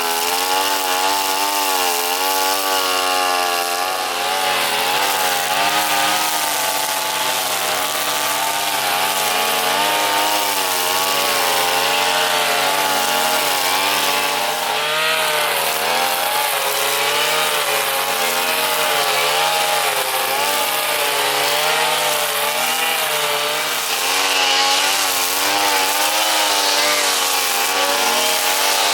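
Two-stroke brush cutter engine running at high speed, its pitch wavering up and down continually as the throttle and load change while it cuts grass.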